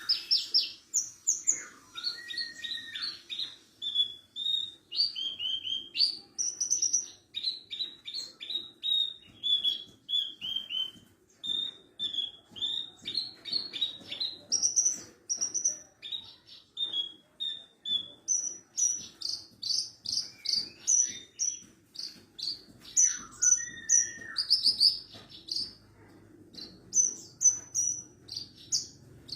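Branjangan parva, the Horsfield's bush lark (Mirafra javanica parva), singing a long, unbroken song of rapid short chirps, trills and a few down-slurred whistles, with a faint low hum underneath.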